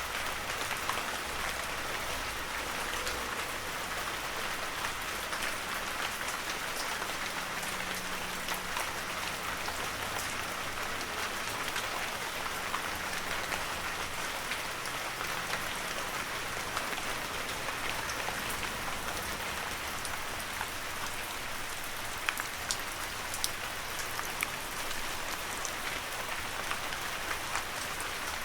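Heavy rain falling steadily through forest, a dense even hiss with many sharp individual drop ticks on leaves and surfaces throughout.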